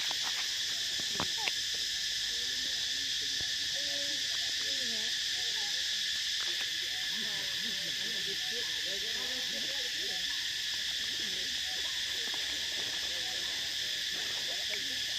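Steady, high-pitched insect chorus, with many soft, short wavering squeaks or coos throughout, thickest in the middle.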